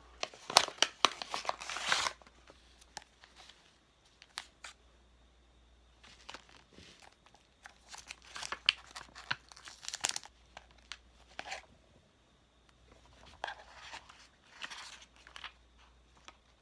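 Crinkling and tearing of wrapping being handled up close, in three bouts of crackling with quiet between.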